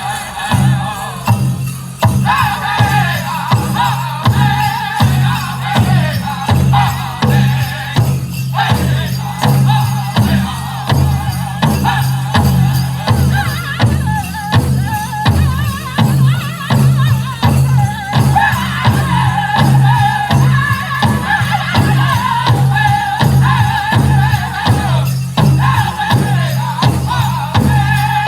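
Powwow drum group singing a chicken dance song in unison over a big drum struck with a steady, even beat.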